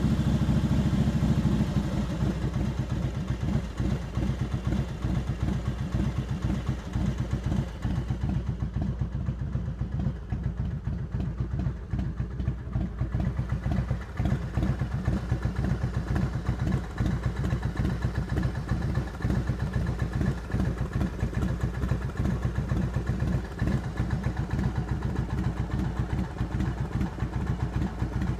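Harley-Davidson Heritage Softail Classic's 95-cubic-inch Screamin' Eagle V-twin idling through a Vance & Hines exhaust. It drops from higher revs to idle in the first couple of seconds, then settles into a steady, pulsing idle.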